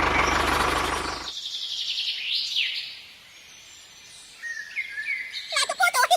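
A machine's steady running noise cuts off suddenly about a second in. Birds then chirp in the quiet, ending with a fast repeated call.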